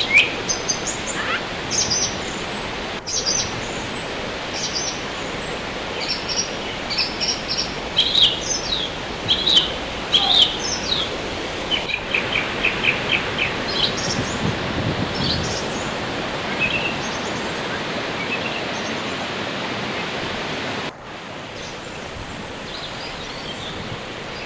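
Steady rushing of a waterfall with many small birds chirping over it in quick, high calls. The bird calls thin out in the second half, and the level of the water noise drops suddenly at a cut near the end.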